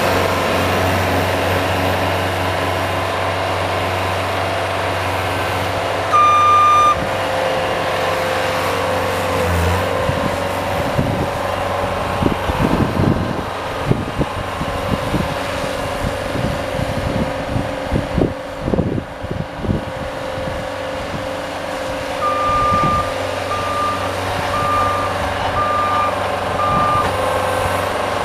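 Engine of a snow-plowing vehicle running steadily, with one long beep about six seconds in and a run of clunks in the middle. Near the end a reverse warning beeps at regular intervals, about one beep a second, as the vehicle backs up.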